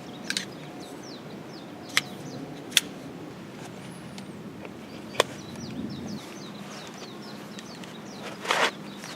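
Small birds chirping: many short, falling high calls repeated throughout. A few sharp clicks are heard along the way, and there is a short rustle near the end.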